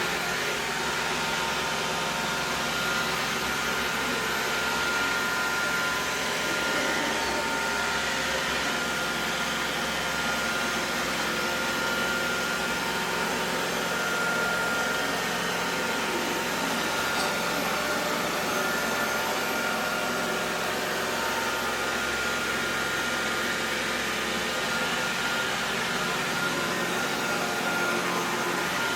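Xiaomi Mi Robot Vacuum-Mop 2 Ultra robot vacuum running while cleaning: a steady motor and suction noise with a constant whine over it.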